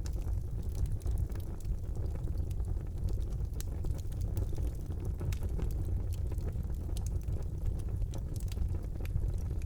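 Wood fire burning in a fireplace: a steady low roar of the flames with scattered sharp crackles and pops of the burning wood.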